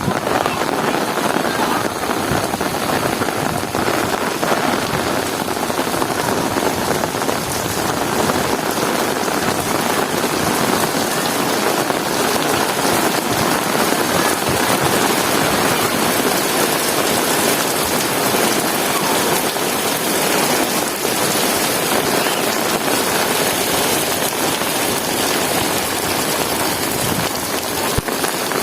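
Heavy rain falling steadily, a dense even hiss of many drops striking hard surfaces.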